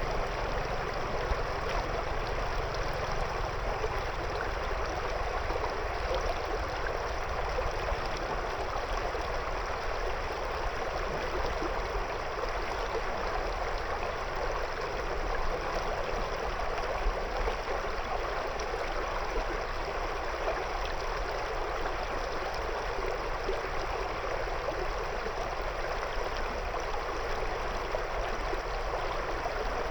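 River water flowing and gurgling around stones, a steady rushing and burbling.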